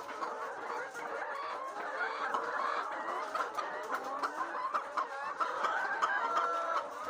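A flock of laying hens clucking, many voices overlapping without a break.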